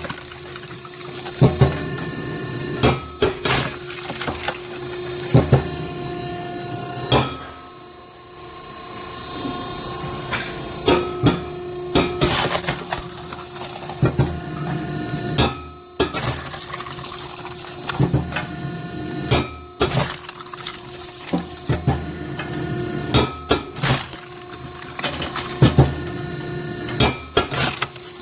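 Hydraulic firewood splitter (factory model SSLJ100-600H) running with a steady hum while its cross-shaped blade splits fresh-cut oak rounds into camping firewood. Repeated sharp cracks and clatter come at irregular intervals as the wood splits and the pieces fall.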